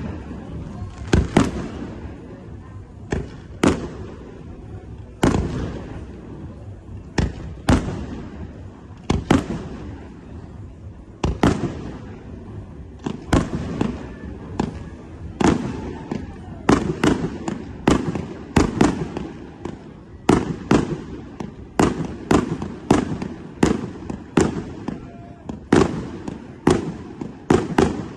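Fireworks display: a steady run of aerial shell bursts, sharp bangs each with a short echoing tail, coming about one to two a second and crowding closer together in the second half.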